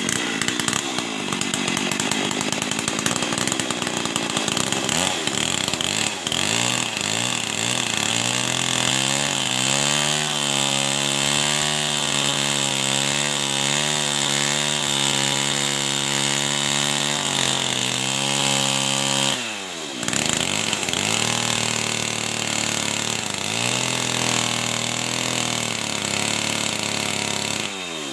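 Two-stroke chainsaw engine running at high revs. The pitch sweeps down and back up as the throttle is let off and opened again, with a sharp dip about twenty seconds in and another near the end.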